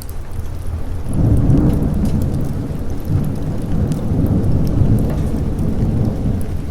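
A long roll of thunder that swells about a second in and rumbles on, over steady rain, with scattered sharp crackles from a fireplace.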